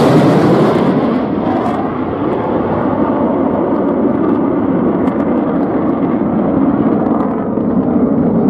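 Jet aircraft flying past: loudest at the very start as it goes by, its pitch falling, then a steady rumble as it draws away.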